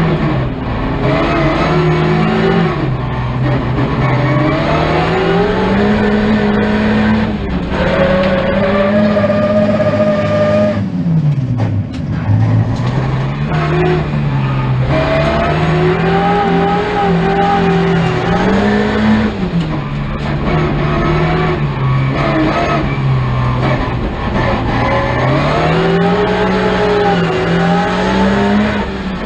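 A folk race car's engine heard from inside its stripped, roll-caged cabin, revving up and down through the gears at racing speed. Its pitch rises and falls again and again, dipping sharply about eleven seconds in before climbing again.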